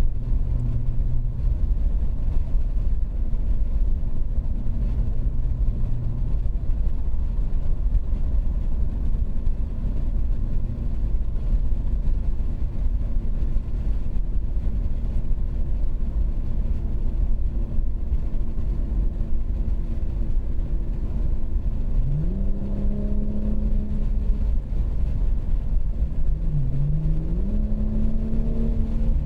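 2019 BMW 540i's B58 3.0-litre turbocharged inline-six with a muffler delete, cruising with a steady low exhaust drone. Near the end it accelerates: the engine note climbs, drops once at an upshift, and climbs again.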